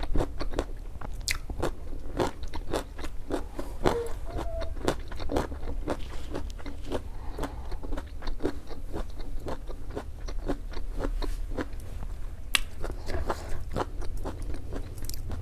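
Close-miked chewing with the mouth closed: a steady run of small wet clicks and crunches, about three or four a second.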